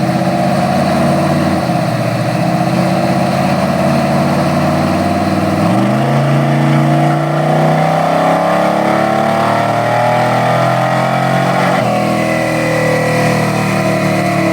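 Truck engine running hard under load on a chassis dyno, its pitch climbing steadily over several seconds, with abrupt pitch jumps about six and twelve seconds in.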